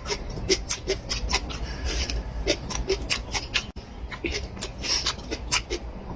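Close-miked eating sounds: chewing and lip-smacking, with irregular wet clicks a few times a second.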